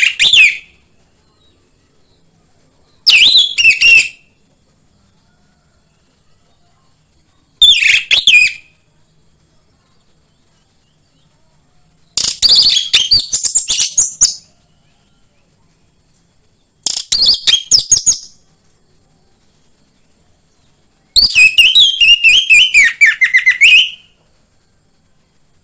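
Orange-headed thrush singing in short bursts of quick, varied high notes, five phrases of one to three seconds each separated by pauses of a few seconds. A faint steady high hiss lies underneath.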